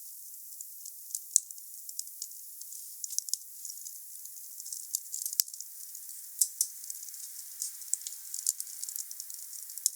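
Wood fire crackling with scattered sharp pops, two louder ones about a second and five seconds in, over a faint hiss that grows a little stronger in the second half.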